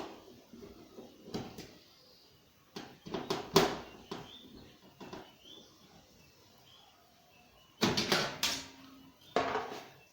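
Short knocks and clatter from handling parts and tools on a washing machine's opened casing, coming in a few separate groups with quiet gaps between.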